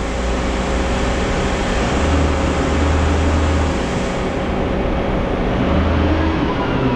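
Heavy diesel machinery running loudly and steadily with a deep hum. A high hiss over it fades out about four seconds in.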